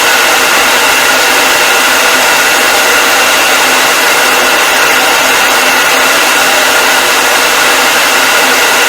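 Hair dryer running steadily: an even rush of blown air with a constant motor whine on top, unchanging throughout.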